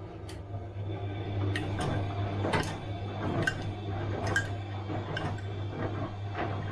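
Bosch washing machine running mid-cycle: a steady low motor hum with irregular clicks and knocks as the drum turns the load.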